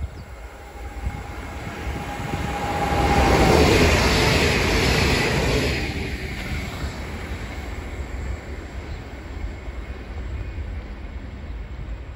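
Passenger train passing through the station on the far track, growing louder to a peak about four seconds in and then fading away over the next few seconds. A thin steady tone, dipping slightly in pitch, carries over its approach.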